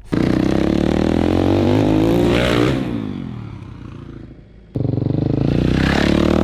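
Dirt bike engine revving hard, its pitch rising and falling, then fading away after about two and a half seconds. A second run of revving cuts in suddenly near the five-second mark.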